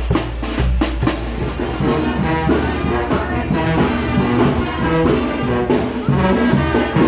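Brass band music: brass instruments playing a melody in step-like notes, with drum hits during the first second.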